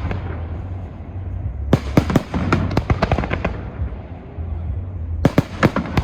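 Fireworks bursting in quick volleys of sharp bangs, one cluster about two seconds in and another near the end, over a steady low rumble.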